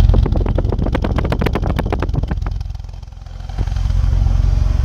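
BMW E46 330Ci's straight-six engine running, with a fast run of clattering ticks over its low rumble for the first two and a half seconds, then a brief dip before it runs steady again. The owner says the car has some exhaust issues.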